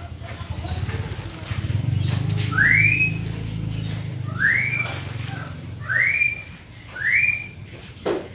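Sooty-headed bulbul (kutilang) whistling four notes about a second or two apart, each sweeping up and then holding level, over a steady low hum. A short knock sounds near the end.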